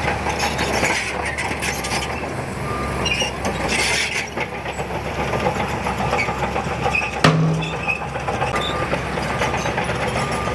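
Diesel engine of heavy earthmoving machinery running steadily under a continuous mechanical rumble, with one sharp metallic clank about seven seconds in.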